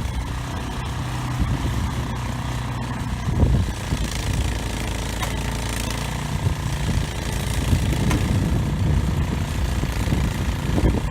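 An engine running steadily at an even speed, with a low hum and a brief louder rough patch about three seconds in.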